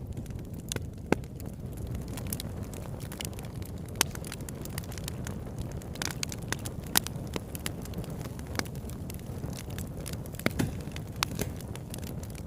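Wood campfire burning with a steady low rumble of flames and irregular crackles and sharp pops from the burning wood.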